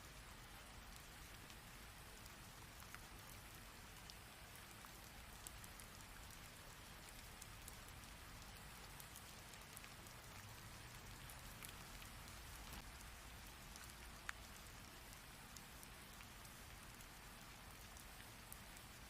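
Faint, steady rain: an even hiss of falling water with scattered single drops ticking through it and a low rumble underneath. One sharper drop stands out about fourteen seconds in.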